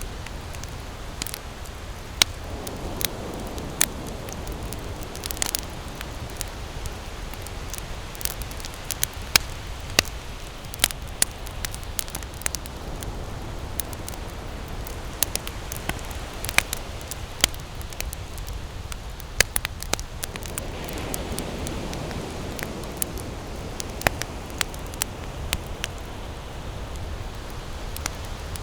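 Wood campfire burning, with irregular sharp crackles and pops over a steady low rush of flame. A soft whooshing swell rises and fades twice.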